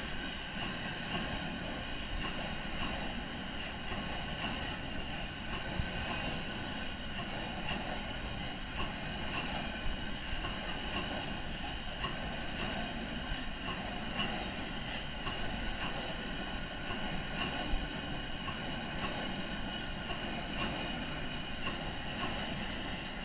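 Train running on rails: a steady rumble with several steady high-pitched tones over it and scattered light clicks.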